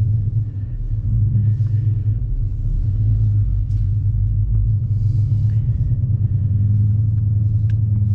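Dodge Challenger Scat Pack's 6.4-litre Hemi V8 running at low speed with a steady, deep exhaust rumble through its Flowmaster muffler.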